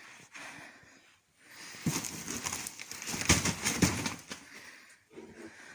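Dry rustling and crackling scrapes, dense with small clicks, for about two and a half seconds starting about two seconds in, as things are shifted about in attic debris; softer rustles come before and after.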